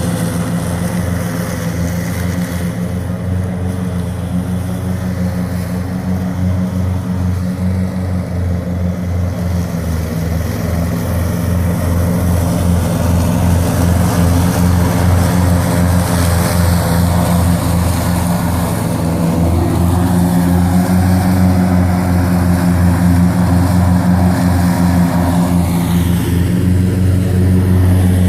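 Engine of a Wolf-Garten Expert 105.18 H ride-on lawn tractor running steadily while mowing wet grass, with a pulsing low hum that grows slightly louder toward the end.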